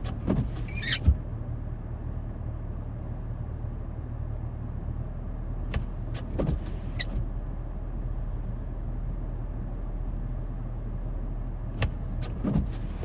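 A motor vehicle engine idling steadily, with a few short clicks and knocks about a second in, around the middle and near the end.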